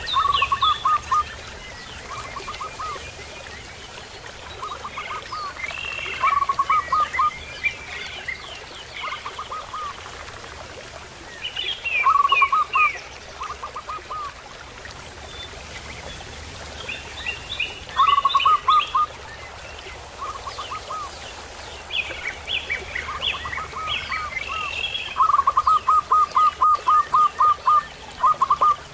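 Birds calling: one bird repeats runs of short, quick whistled notes, with the longest run of about ten notes near the end. Higher twittering phrases come in bursts between the runs.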